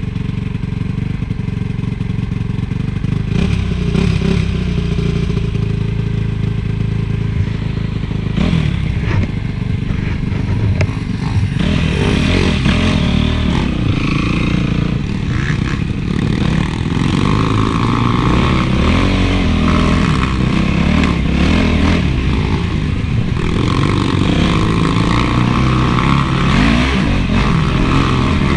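Honda CRF450 motocross bike's four-stroke single-cylinder engine being ridden hard, the revs rising and falling again and again through the gears.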